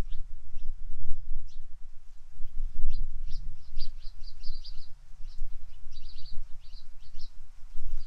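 Bird chirping: short high chirps, a few scattered at first, then a quick run of them from about three seconds in until near the end, over a steady low rumble.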